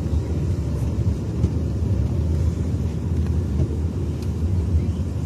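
Steady low rumble inside a moving vehicle: engine and road or cabin noise, with no clear rise or fall.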